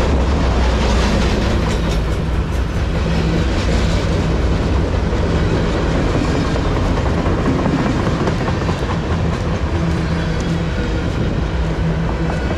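Steel wheels of loaded freight flatcars rolling past close by: a steady, loud rumble with clickety-clack as the wheels cross the rail joints.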